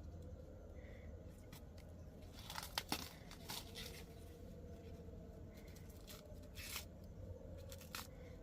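Dry corn leaves and husks tearing and crunching in a few short, sharp bursts: a cluster about three seconds in and single ones later. A faint steady low hum runs underneath.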